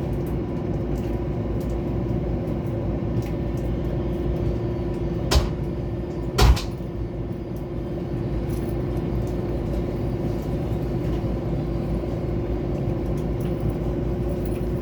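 Steady rumble and hum of a Mugunghwa-ho passenger train running, heard from inside a carriage, with two sharp loud knocks about a second apart a little over a third of the way in.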